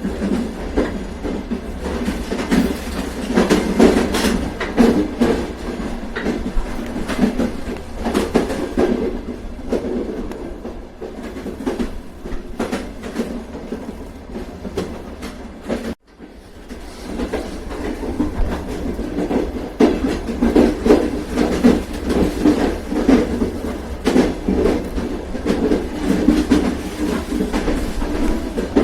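Train running on the rails: a continuous rumble with the clickety-clack of wheels over rail joints. The sound drops out abruptly about halfway through and swells back within a second or two.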